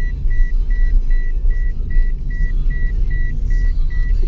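A car's warning chime beeping steadily, about two and a half short beeps a second, over the low rumble of the car rolling slowly, heard from inside the cabin.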